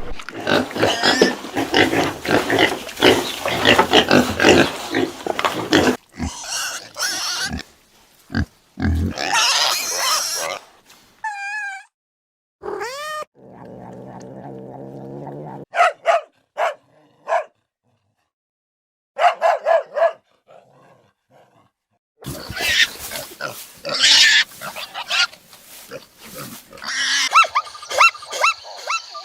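A run of short animal clips cut one after another, with pigs grunting and squealing the most prominent. Abrupt changes and brief silences separate the clips.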